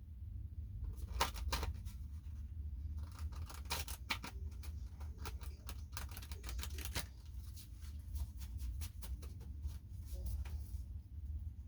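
Tarot cards being shuffled and handled: quick runs of sharp card flicks and slaps in several bursts, stopping near the end, over a steady low hum.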